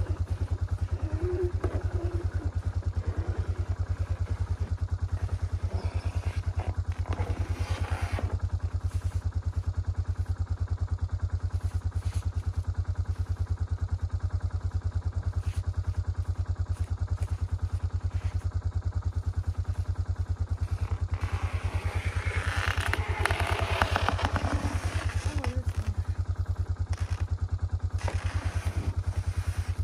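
Quad (ATV) engine running steadily with a low pulsing hum, louder twice for a few seconds as it works harder, while plowing deep snow.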